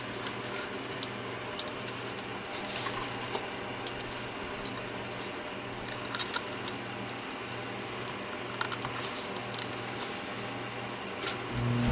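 Scattered light clicks and taps of small plastic parts and wiring being handled as an opened cordless phone handset is worked on, over a steady low hum. A loud low rumble starts near the end.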